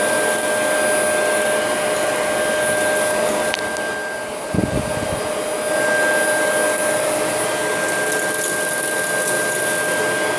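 Shark Professional vacuum cleaner running steadily with a constant whine as it sucks up bird mess. Its sound dips a little about four seconds in, and a brief low thump follows.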